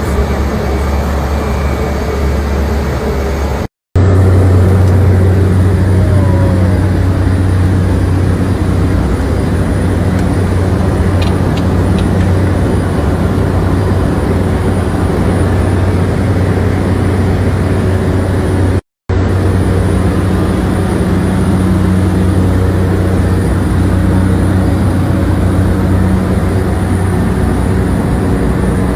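A vehicle engine running steadily, a loud low drone with road or wind rush over it. It breaks off for an instant twice.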